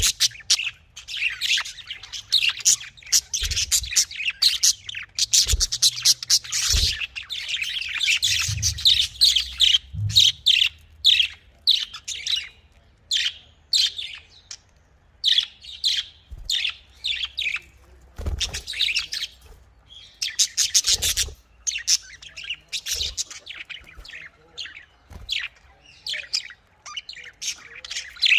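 Budgerigars chirping and chattering, many quick high calls overlapping without pause, with a few soft low thumps in between.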